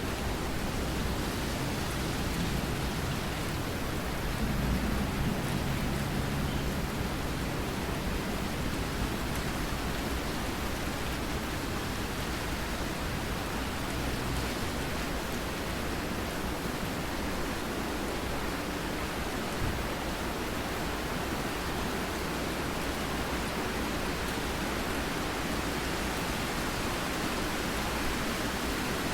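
Steady rain with a low rumble of thunder that swells briefly about five seconds in.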